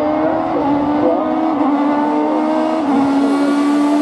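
Hill-climb race car engine running hard under load, its pitch slowly climbing and then dropping sharply about three seconds in at a gear change.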